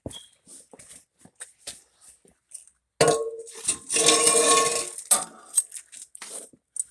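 Light scattered clicks and taps, then, about three seconds in, a loud clatter of metal parts clanking with a ringing tone lasting about two seconds, as loose exhaust parts are handled.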